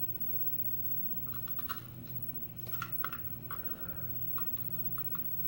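Scattered small, light clicks and brief high tinks of tiny metal lock pins and springs being handled and set down, about ten in all, over a steady low hum.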